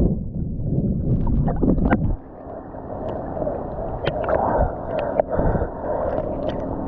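Ocean water sloshing and splashing close to the microphone as a person swims. Heavy low buffeting in the first two seconds gives way to lighter, uneven sloshing with small splashes.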